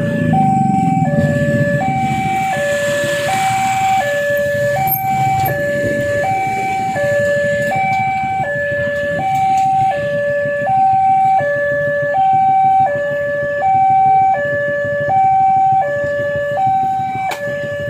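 Electronic warning alarm of a railway level crossing sounding: a steady two-tone hi-lo alternation, each tone lasting about three-quarters of a second, which signals that a train is approaching and the barriers are closing. Road traffic rumbles underneath, with a vehicle passing near the start.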